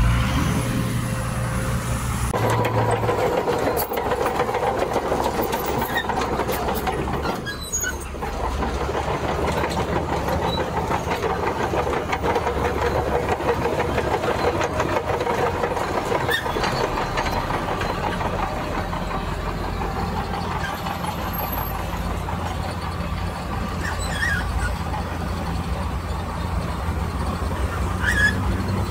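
Diesel engines of heavy earthmoving machinery running steadily under work. The engine note shifts about two and a half seconds in.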